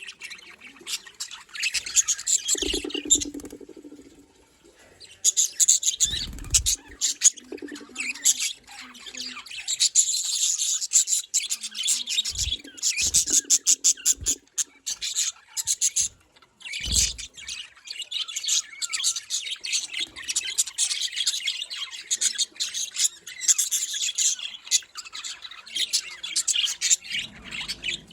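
Budgerigars chattering with dense, rapid high chirps, with a couple of brief lulls and a few dull low thumps among them.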